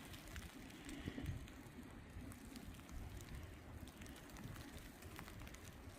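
Wind rumbling on the microphone in a blizzard, low and unsteady, with a faint hiss and scattered faint ticks.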